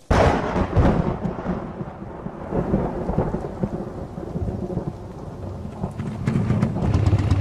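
A thunderclap cracks at the start and rolls off in a long rumble over several seconds, over steady rain. Near the end a motorcycle engine comes in and grows louder as it approaches.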